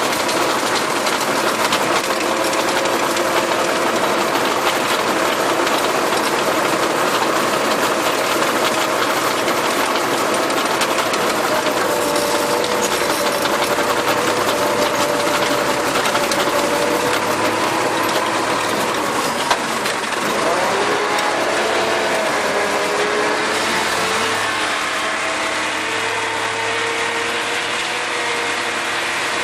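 Farm tractor engine running steadily under load while working a rotary tiller, a dense mechanical din. The engine's pitch wavers and shifts about two-thirds of the way through, with one short knock just before.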